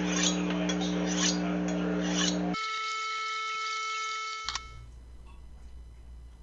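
Kitchen knife being sharpened: a few short scraping strokes over a steady low hum. About two and a half seconds in, the sound cuts abruptly to a quieter steady tone with a single click, then to faint room tone.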